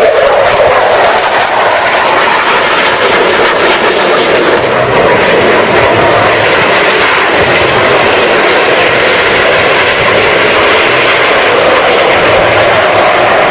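Blue Angels F/A-18 Hornet jets' engines: a loud, continuous rush of jet noise that swells and eases slowly over several seconds as the jets fly by.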